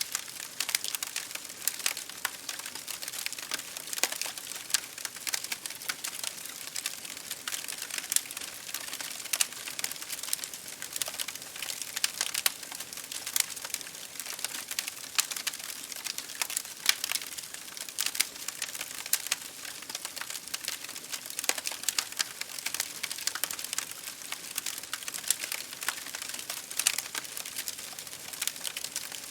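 Wood fire crackling in a fireplace, with a constant scatter of sharp pops and snaps, over a steady hiss of rain hitting a window.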